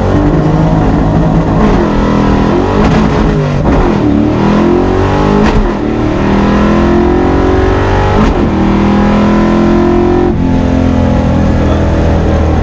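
Car engine accelerating hard, its pitch climbing and dropping back several times as it is shifted up through the gears.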